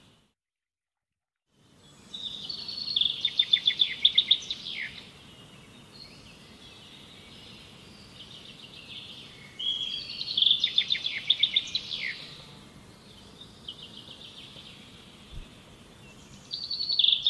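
A songbird singing: after a second and a half of dead silence, three loud phrases of fast, rattling repeated notes come about seven seconds apart, with fainter twittering between them.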